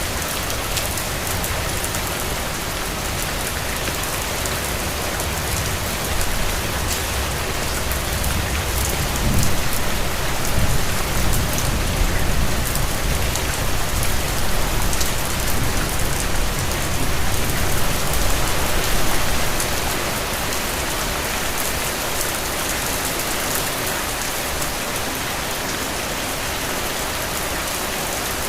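Steady rain falling on hard surfaces, an even hiss with fine drop patter throughout. A low rumble swells in through the middle and fades out again.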